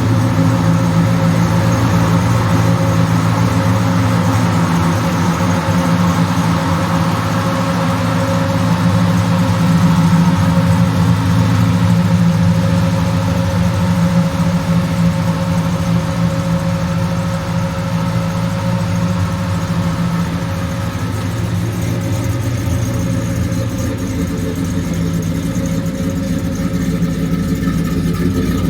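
A 1983 Chevy C10 pickup's engine running at a steady speed, with an even low hum and no revving.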